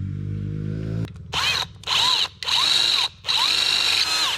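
Power drill drilling out a rivet in four short trigger pulls, its motor whine rising as it spins up and dropping as each pull ends. A low steady hum comes before the first pull.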